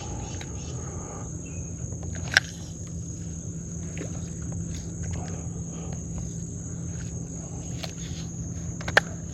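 Insects droning in a steady high-pitched chorus over a low, even outdoor rumble, with two sharp clicks, one a couple of seconds in and one near the end.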